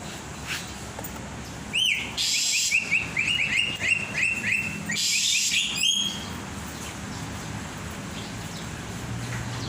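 Caged songbird singing a rapid run of short whistled notes, starting about two seconds in and lasting about four seconds.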